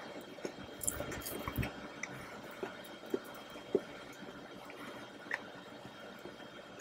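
Close-miked wet eating sounds of soft chocolate mousse cake: squishy chewing with scattered small mouth clicks and smacks.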